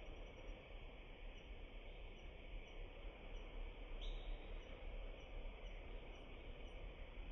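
Steady, low outdoor background noise with faint high chirps repeating about every half second.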